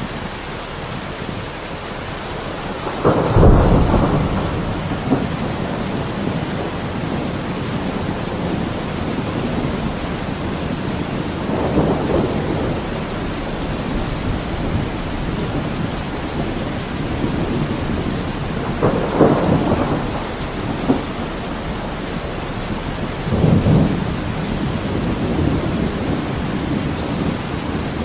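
Steady heavy rain during a thunderstorm, with rolls of thunder rumbling up four times: the loudest about three seconds in, then around twelve, nineteen and twenty-three seconds.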